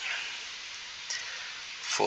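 Steady hiss of recording background noise, with no speech.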